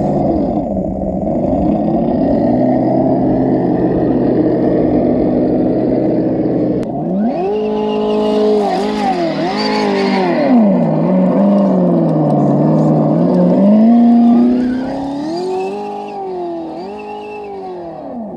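Simulated truck engine sound from an ESS-One sound unit on an RC scale trail truck: it idles steadily, then from about seven seconds in revs up and down over and over with the throttle. A hissy rush joins the first revs for a couple of seconds.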